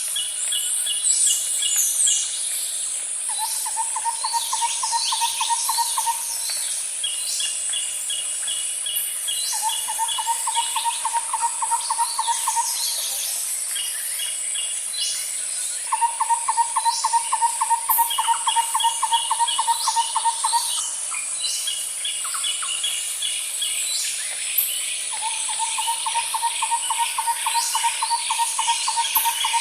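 Layered nature ambience: a low, rapid trill comes in four times, each lasting two to five seconds, over many high bird chirps and short song phrases, with a steady high insect hum throughout.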